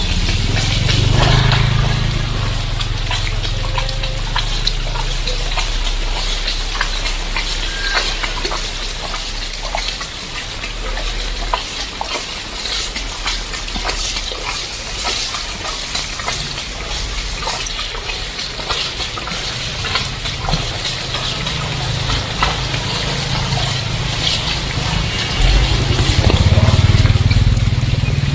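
Heavy rain falling on a flooded street, a dense hiss of water with many sharp drop hits. A low rumble swells in the first few seconds and again near the end.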